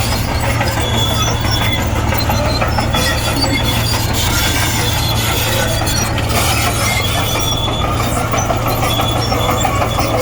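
Komatsu D58E crawler bulldozer running steadily, its diesel engine giving a constant low drone while its steel tracks give short, high squeaks.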